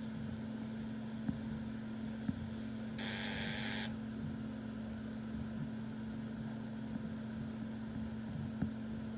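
Upper-sideband receiver audio from SmartSDR with spectral noise reduction on: the interfering noise is taken down almost entirely, leaving a steady low hum and faint hiss. About three seconds in, a brief burst of higher hiss comes through.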